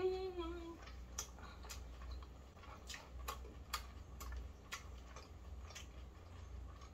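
Close-up chewing of fried chicken with the mouth closed: irregular crisp clicks and crunches every half second or so, with a short hummed "mm" at the very start.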